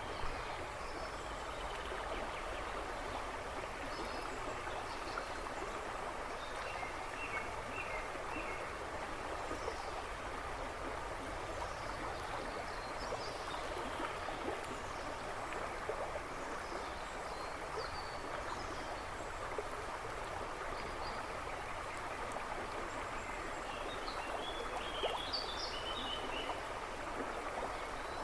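River water rushing and babbling steadily over stones. Small woodland birds chirp faintly in the background, with a brief cluster of chirps about seven seconds in and a busier one near the end.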